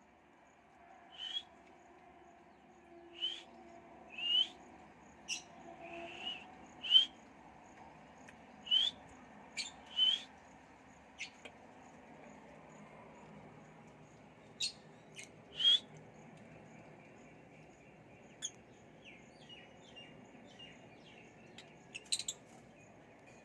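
Pet lovebirds giving short, sharp rising chirps at irregular intervals, with softer, quicker chirps near the end.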